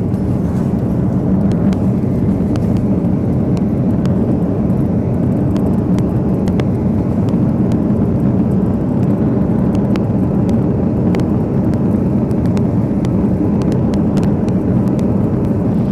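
Steady, loud, low vehicle rumble with light scattered clicks.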